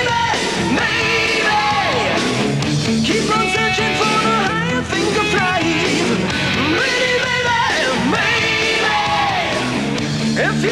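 Hard rock song with a male lead singer over a full rock band, his voice holding long notes above the guitars and drums.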